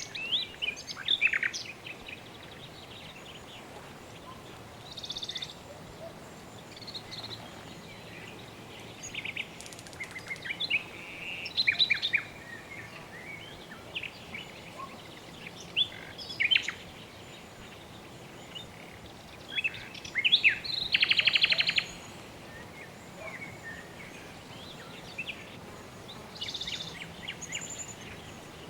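Birds chirping and calling at irregular intervals, with short quick whistled notes and a fast rattling trill about twenty-one seconds in, over a steady soft background hiss.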